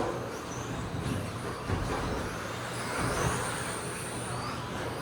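Electric RC stadium trucks with 13.5-turn brushless motors racing: faint high motor whines rising and falling as they accelerate and slow, over a steady low hum.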